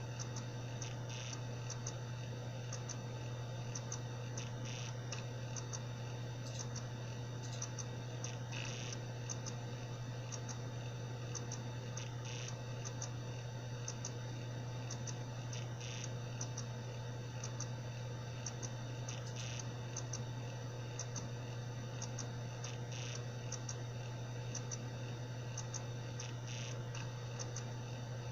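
Seagate Barracuda 7200.7 80 GB hard drive spinning with a steady hum while it ticks about twice a second, with a louder click every three to four seconds: the abnormal noise of a faulty drive.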